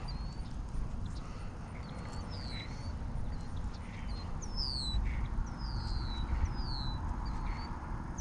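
Wind buffeting the microphone as a steady low rumble, with a bird calling over it in short high whistles, several of them sliding downward in pitch, repeated every second or so.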